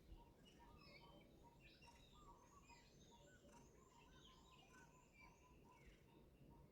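Faint birds chirping: many short, overlapping high chirps and quick rising and falling notes over a low background hiss.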